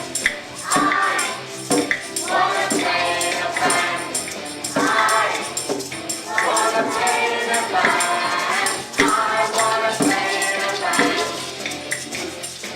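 A class of children singing a song together with musical accompaniment.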